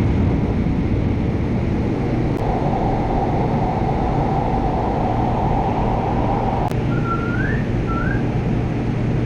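LA Metro A Line light-rail train running with a steady rumble; a steady whine cuts off suddenly about two-thirds of the way through, followed by two short rising squeals.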